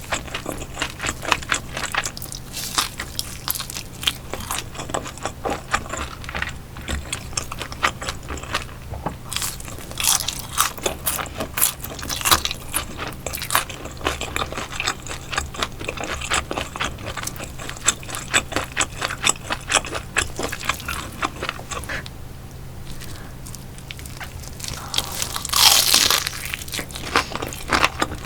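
Close-miked crunching and chewing of crispy cooked small fish, a rapid run of crackling bites with a short lull about three quarters of the way through and one louder crunch near the end.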